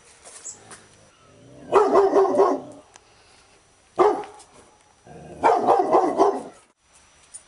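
Labrador retriever barking in volleys: a quick run of barks, a single sharp bark, then another quick run.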